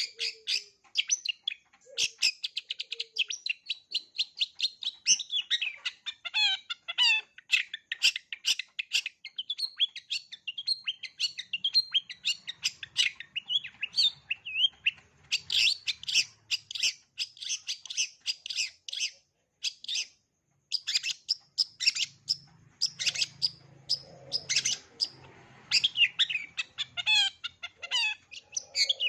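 Long-tailed shrike (cendet) singing a fast, chattering run of rapid high notes and trills, with mimicked phrases woven into its song, pausing briefly about twenty seconds in.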